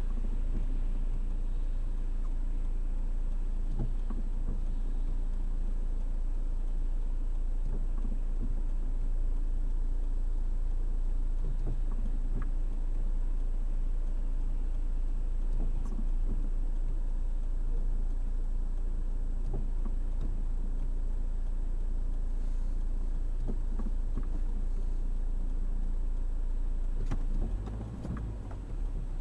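Car engine idling, heard from inside the cabin as a steady low drone, with a few faint clicks and a brief dip in level near the end.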